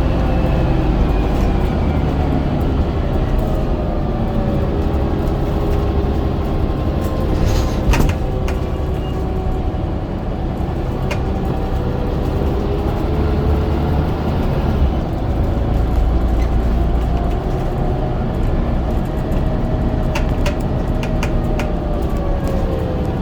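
Scania DC9 9.0-litre diesel engine of a Scania N94UD double-decker bus with a ZF Ecomat automatic gearbox, running under way. The engine note sinks over the first several seconds and climbs again from about halfway before easing off near the end. There is a sharp knock about eight seconds in and a few light rattles later on.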